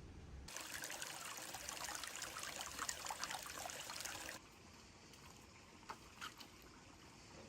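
Water trickling and splashing. It starts about half a second in and cuts off abruptly a little past the middle, leaving a fainter hiss with a few soft clicks.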